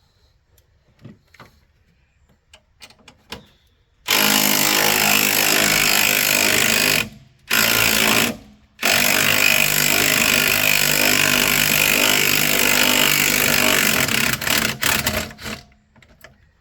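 Impact wrench hammering loudly in three runs, about three seconds, under a second, then nearly six seconds, trailing off in a few short stuttering pulses, as it spins off the upper strut-mount nuts. A few faint clicks come before it starts, about four seconds in.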